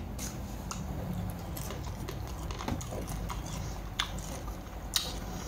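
Wet squelching of crab salad being handled and mixed, with scattered small clicks and two sharper clicks about four and five seconds in.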